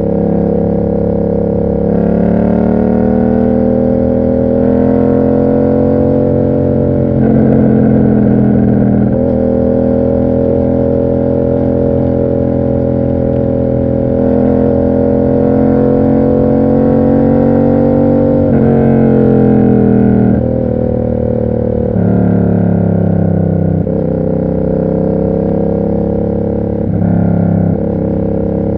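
Yamaha MT-07's parallel-twin engine running through an SC Project aftermarket exhaust while riding. Its pitch rises and falls gently with throttle, and it changes step several times, around 2, 7, 18 and 22 seconds in, as the rider shifts gears or rolls off.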